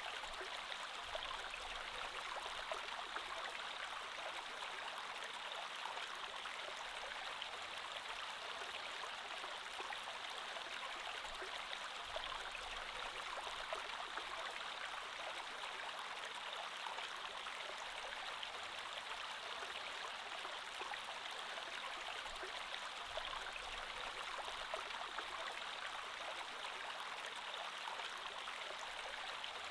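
Creek water flowing steadily over stones, an even babbling rush with fine trickling detail.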